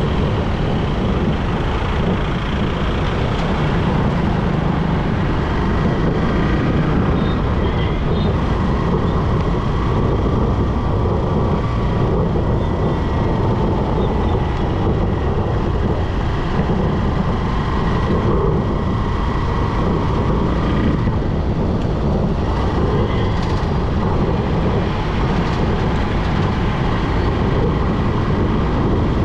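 Motorcycle on the move on a road: steady engine and road noise with no letup.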